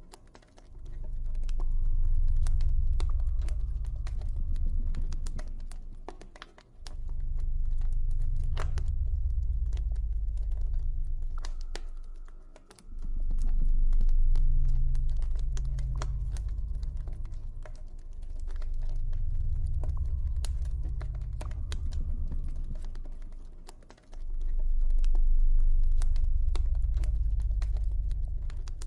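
Campfire crackling with many small sharp pops, over a loud deep ambient drone that swells and fades in slow waves roughly every six seconds.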